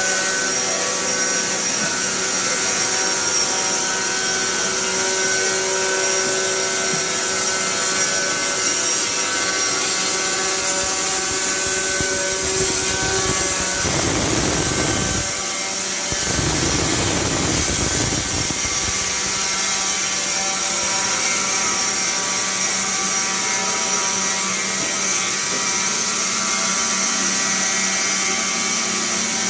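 Carpathian SMSA 110 semi-automatic sawmill running with a steady machine whine and hum, with a heavier spell of noise about halfway through that lasts some five seconds.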